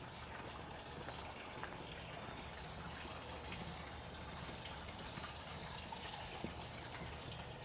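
Quiet residential street ambience at walking pace: light footsteps on pavement over a steady low hum, with faint high bird calls through the middle.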